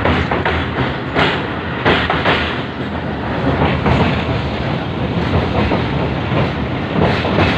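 Passenger train running at speed, heard from inside a moving carriage: a steady rumble and rushing noise with irregular clacks of the wheels over the rail joints.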